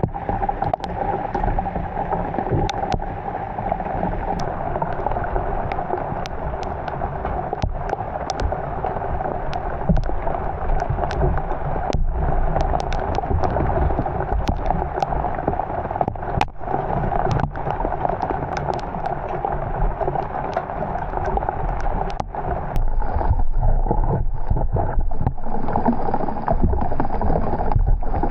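Heavy rain on water around a bamboo raft: a steady hiss of rain and moving water, dotted with many sharp ticks of drops, growing louder a little over twenty seconds in.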